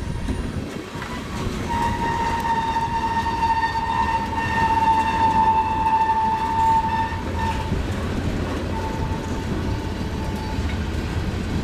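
Long freight train rolling slowly past with a steady low rumble while it slows down. A high single-note tone rings out steadily for about six seconds, then returns more faintly for a couple of seconds near the end.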